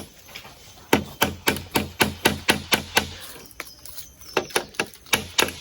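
A nail being hammered in: a quick run of about nine blows, about four a second, then a short pause and a few more blows near the end.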